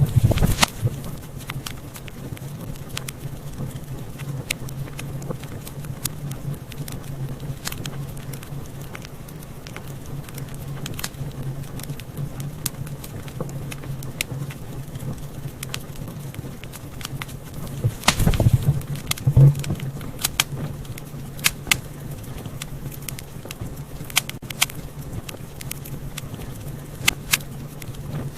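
Wood fire in a fireplace crackling, with scattered sharp pops over a steady low hum, and a louder cluster of pops about two-thirds of the way through.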